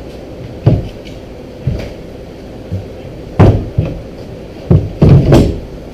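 A plywood deck panel knocking and thumping against the jon boat as it is worked into place: a string of irregular knocks, the loudest about halfway through and a cluster of heavy thumps near the end.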